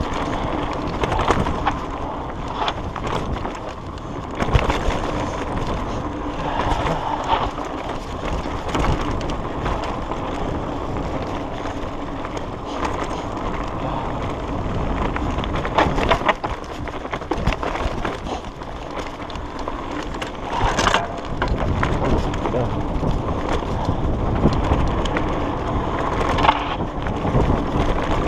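Mountain bike ridden over a rough dirt trail: a continuous rolling rumble from the tyres, broken by frequent knocks and rattles from the bike as it hits bumps.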